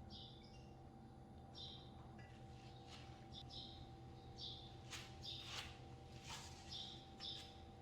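Faint bird chirping: a short falling call repeated about every second and a half, over a steady low hum, with a few soft clicks or rustles in the second half.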